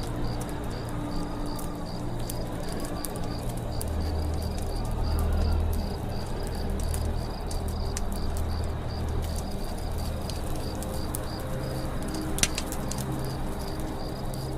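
Campfire crackling with scattered small pops and one sharper pop near the end, set against doves cooing low and a steady high chirping of about three pulses a second.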